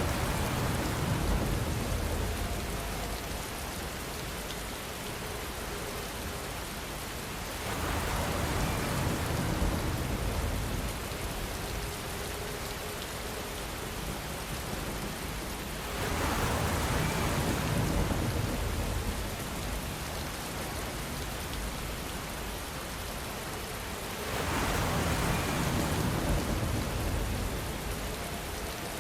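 Steady rainfall, a continuous hiss of rain on a surface, swelling louder and fuller at the low end for a few seconds about every eight seconds, four times in all.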